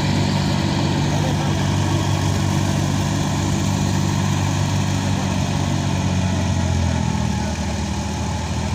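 Tractor diesel engine running steadily at a constant note, easing off slightly near the end.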